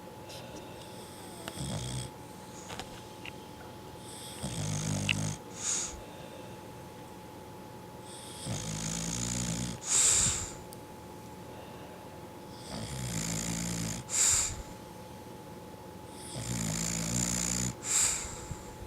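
Dog snoring in sleep, in a slow, regular rhythm about every four seconds. Each low snore is followed by a short, louder hissing puff of breath.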